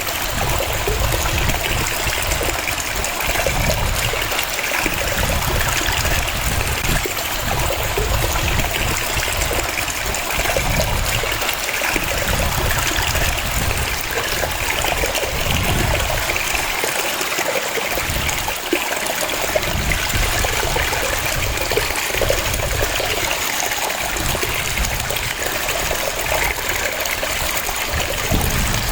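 Waterfall: a steady rush of falling and splashing water with a low rumble that swells and fades underneath.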